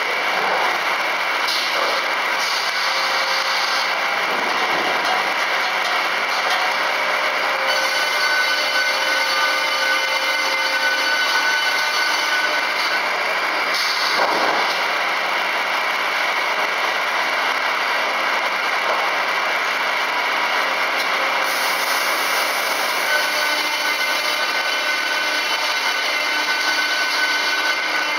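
FKD 500 double-arbor circular saw running, a loud steady machine noise with a few steady whining tones, its pitch dipping briefly about three times.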